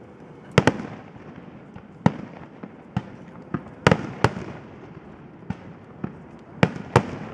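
Fireworks display: aerial shells bursting in a string of about ten sharp bangs at uneven intervals, some in quick pairs, with the loudest about half a second in, near the middle and near the end.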